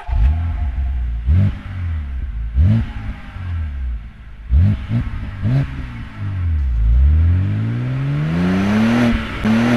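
Car engine revving: four or five quick throttle blips with the pitch jumping up and dropping back, then the revs sink and climb steadily for the last few seconds before cutting off suddenly.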